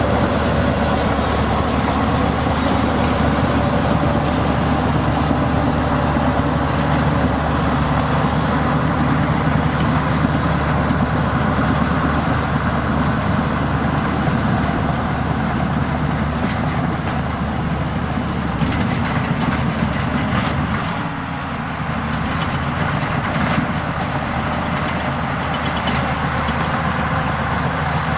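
Heavy diesel earthmoving machinery running steadily, with a deep, even engine note. The engine note dips briefly about three quarters of the way through, and a scatter of clanks and knocks is heard around that point.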